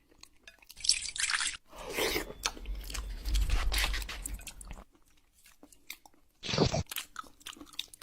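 A cat crunching and chewing food in irregular bursts, with short breaks in between.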